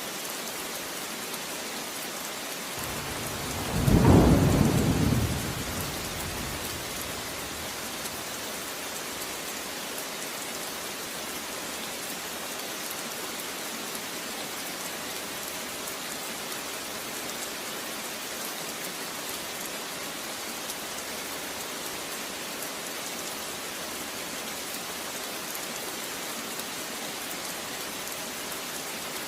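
Steady rain with a single thunderclap about four seconds in, swelling quickly and rumbling away over two or three seconds.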